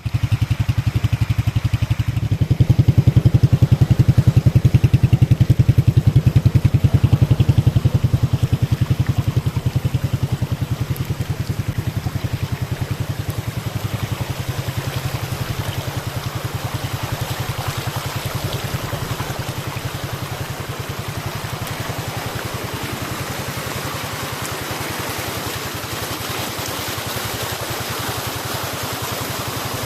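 Waterfall water falling from a height and splashing: a loud, steady rush with a deep rumble, strongest in the first several seconds and then easing slightly toward a brighter hiss.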